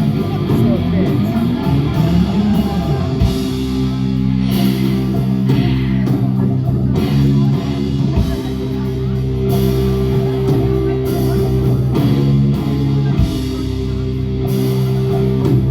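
Live rock band playing: electric guitar chords held and changed every few seconds over drums, with repeated cymbal crashes.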